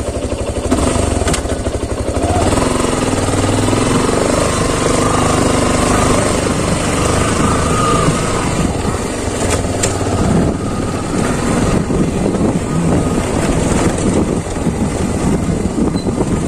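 Motorcycle engine pulling away and running steadily as the bike rides along, with a few sharp knocks along the way.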